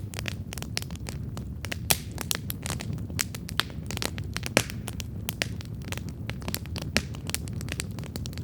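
Wood campfire burning: a steady low rumble of flames with dense, irregular crackles and snaps of burning wood, a few sharper pops standing out.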